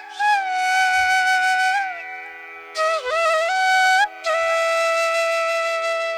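Background music: a flute playing long held notes, bending between pitches, over a steady sustained drone.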